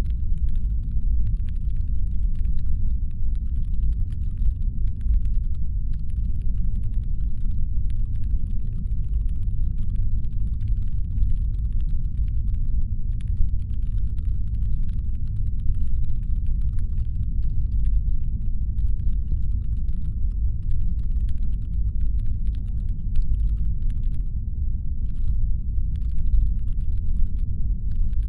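Steady deep brown-noise rumble, a sound-designed spaceship engine hum, with faint irregular clicking above it.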